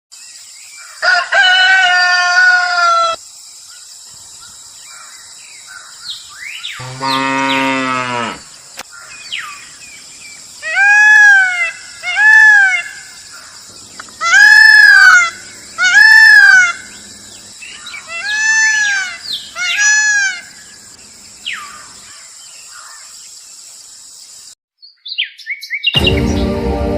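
Farm animal calls over a steady high hiss: a long crowing call from a rooster, then a low cow moo, then six short high arched calls in three pairs. Music starts near the end.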